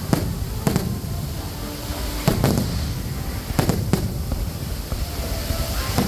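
Aerial fireworks going off: a string of sharp bangs, about six in a few seconds, some in quick pairs, over a continuous low rumble.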